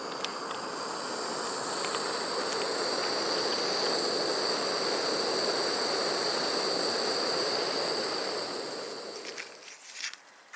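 Crickets or other insects buzzing in a steady high chorus, under a rushing noise that swells, holds, and dies away near the end. Faint clicks follow.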